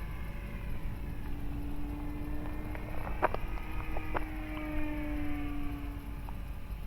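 Electric motor and propeller of a Dynam Super Cub RC plane in flight at reduced throttle: a steady hum whose higher tones drift gently in pitch as it flies by. Two sharp clicks come near the middle.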